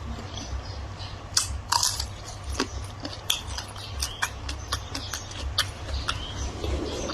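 Close-up chewing and biting sounds of a person eating a meal, with many short, irregular wet clicks and crunches from the mouth.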